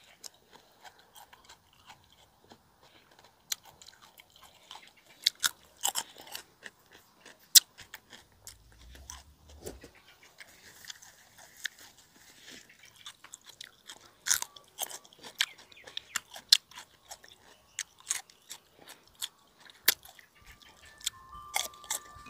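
Close-up chewing and crunching of raw cucumber, crisp bites and crunches coming irregularly.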